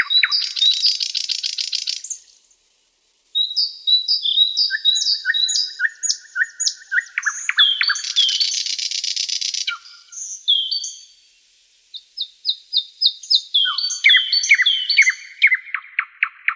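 Songbirds singing: quick phrases of repeated whistled notes and fast buzzy trills, high-pitched, with two short pauses, one about two seconds in and one about eleven seconds in.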